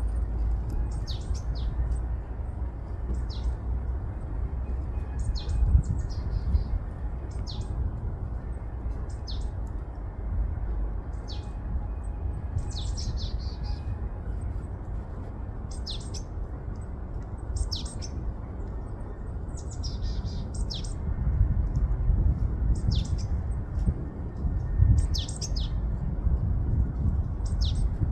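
Small birds chirping, short high notes that drop quickly in pitch, repeated every second or two, over a steady low rumble of wind on the microphone.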